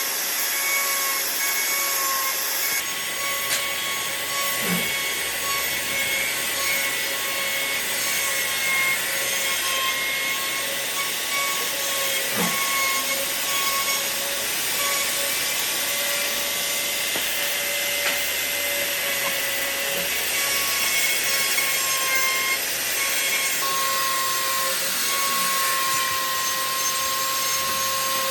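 An electric power tool running steadily while working wood: a constant motor whine over a high hiss, with a few faint knocks.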